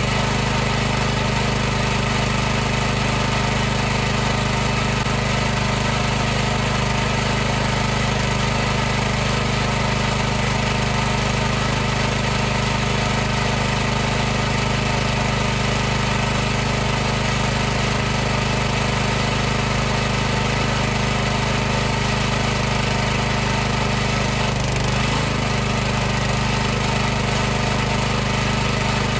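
High-pressure washer pump running continuously: a steady, unchanging mechanical hum and buzz that holds the same pitch and loudness throughout.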